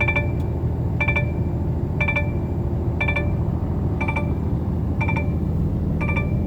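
Truck dashboard warning chime pinging about once a second over the steady low hum of the truck's engine in the cab.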